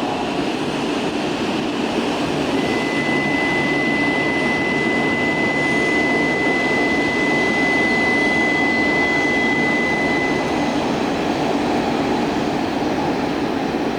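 Shinkansen train running past the platform on departure, a steady loud rumble and rush. A steady high-pitched tone holds from about two seconds in until near the end.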